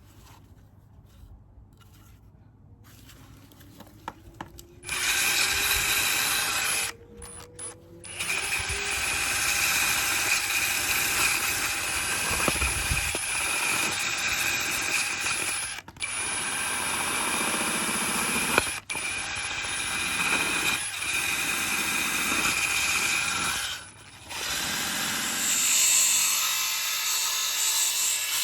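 Electric power tool working wood, starting about five seconds in and running in long stretches with a few brief stops.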